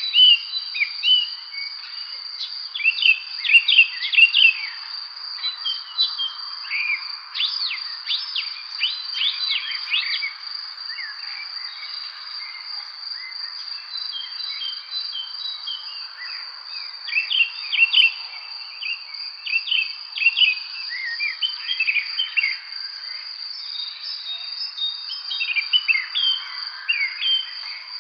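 Small songbirds chirping and singing in quick clusters, busiest early on and again in the second half, over a steady high-pitched insect trill and a soft hiss of evening ambience.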